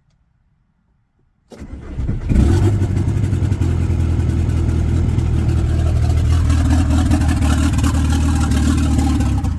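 Volkswagen Jetta TDI diesel engine cranking and catching about a second and a half in, then running steadily before cutting out at the very end as it dies, which the owner puts down to air in the fuel lines after a fuel filter change.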